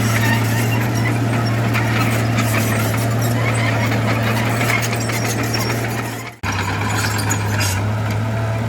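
Heavy earthmoving machinery at work: a steady low diesel engine drone with scattered knocks over it. About six seconds in the sound fades out sharply and comes straight back, as at an edit cut.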